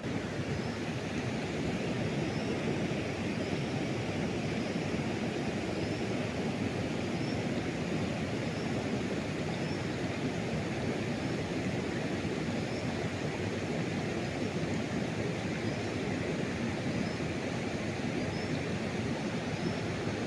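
Steady rushing of river water, an even noise with no engine tone, with a faint high chirp repeating about once a second.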